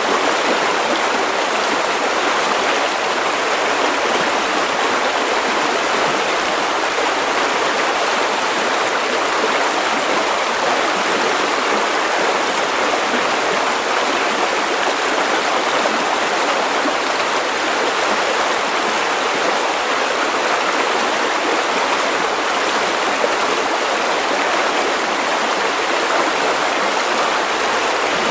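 River water running over stones: a steady, unbroken rush and gurgle.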